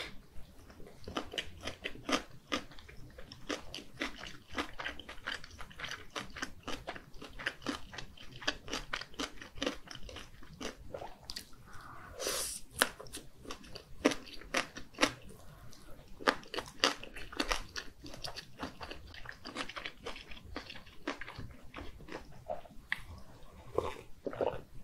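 Close-miked chewing of mini gimbap and spicy fish cake: a continual run of wet mouth clicks and soft crunches, with a loud, sharp noise as a piece of fish cake goes in about halfway. Near the end she drinks water from a glass mug.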